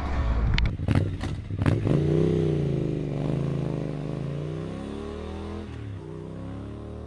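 Small four-speed motorbike engine running, with a few sharp clacks about a second in, then the revs rising and falling before settling to a steady idle near the end.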